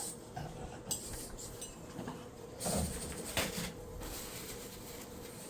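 Light clicks and clinks of small tools and containers being handled, with a short rustle about two and a half seconds in, over a faint steady hum.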